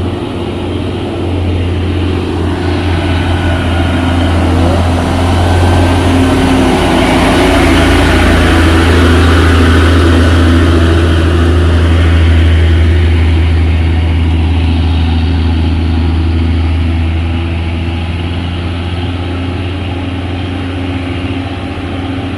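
Heavy tanker truck's diesel engine pulling hard up a steep incline, a deep steady drone that grows louder as the truck passes close, loudest about halfway through, then slowly fades.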